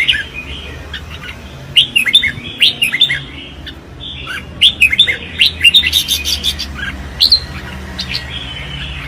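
Red-whiskered bulbuls singing in competition: bursts of quick, slurred whistled phrases, one after another, with the busiest stretches about two seconds in and between five and seven and a half seconds.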